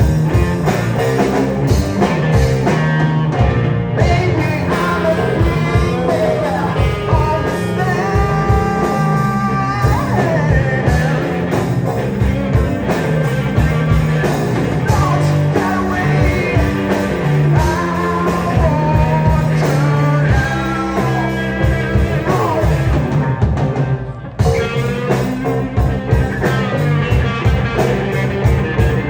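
A live rock band playing with a singer, the vocal line carried over a steady, dense beat, with a brief break about three-quarters of the way through.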